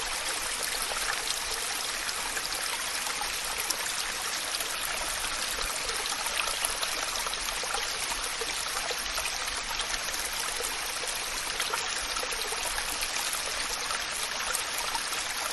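Waterfall: water pouring and splashing in a steady, even rush, with a bright hiss.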